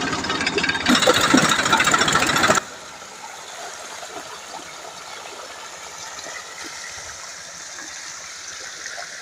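Tractor engine running, driving a PTO belt-pulley water pump. About two and a half seconds in it gives way suddenly to a quieter, steady rush of pumped water flowing.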